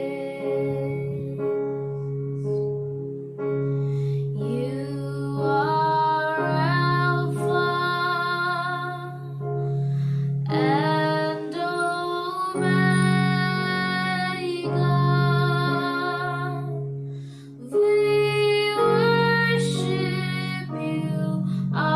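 Slow worship song: a voice sings long, drawn-out notes over steady, sustained low chords.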